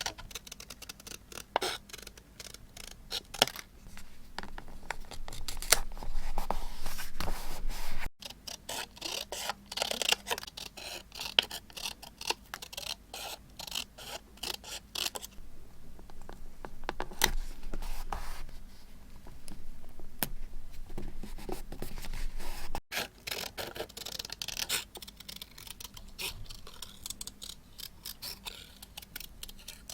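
Close-up paper crafting sounds: scissors snipping and paper scraping and rustling, with many small crisp clicks and stretches of hissy rubbing. The sound cuts out abruptly twice.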